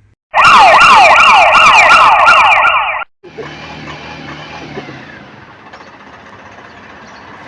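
Toy police car's electronic siren wailing in fast repeated sweeps, about three a second, which cuts off abruptly after about three seconds. A much fainter steady noise follows.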